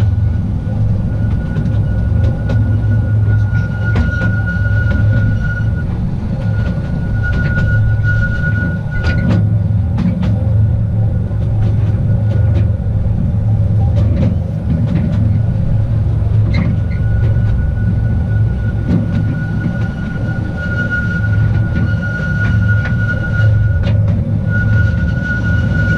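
Small narrow-gauge tourist train running on its track: a steady low rumble of the wheels with scattered rail clicks. A thin, high wheel squeal comes and goes in two long stretches, from about 3 to 9 seconds in and again from about 19 seconds to the end.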